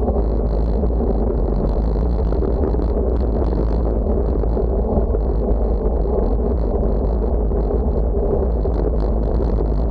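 Steady wind rumble buffeting the microphone, heaviest in the low end, with a faint thin hiss riding above it.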